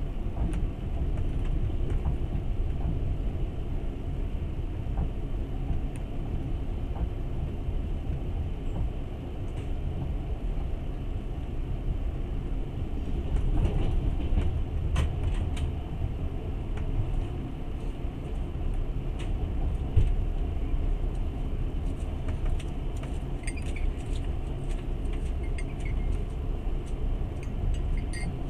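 Passenger train running, a steady low rumble of wheels on rails heard from inside the carriage, with light clicks and rattles now and then and a single sharper knock about twenty seconds in.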